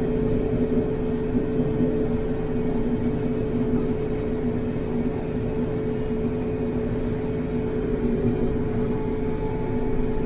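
TYM T574 compact tractor's diesel engine running at a steady speed while pulling a PTO-driven rototiller, a constant-pitch drone that holds level throughout.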